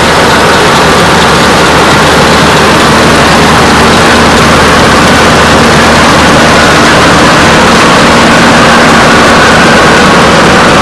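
Antique 45 combine running steadily during corn harvest, loud and unbroken, its engine drone mixed with the noise of the machinery.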